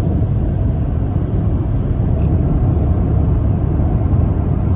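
Steady low rumble of a car driving at highway speed: road and engine noise.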